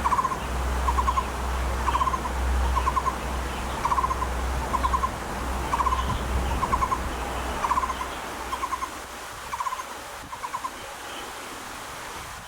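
Taiwan barbet calling: a long series of short phrases, each a quick run of about four clipped notes on one low pitch, repeated about one and a half times a second and stopping near the end. A low rumble runs underneath for most of the first eight seconds.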